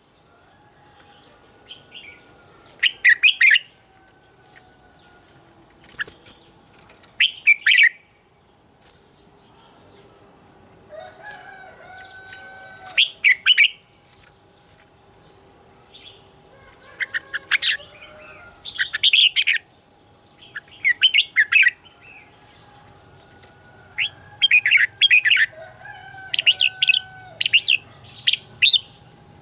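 Red-whiskered bulbul singing: short, bright phrases repeated over and over with brief pauses between, the song of a wild-caught adult bird.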